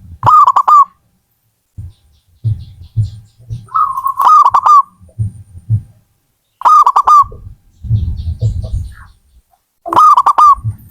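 Zebra dove (perkutut) cooing: four phrases about three seconds apart, each a held note breaking into a quick run of short coos. Low thuds come between the phrases.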